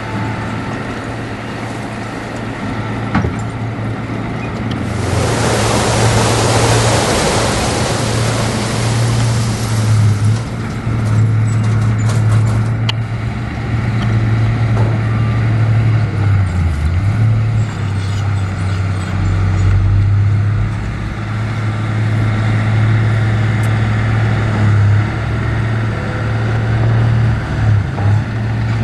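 Heavy diesel earthmoving machinery running steadily with a deep engine drone. About five seconds in, a loud rushing hiss rises over it for around five seconds, then fades.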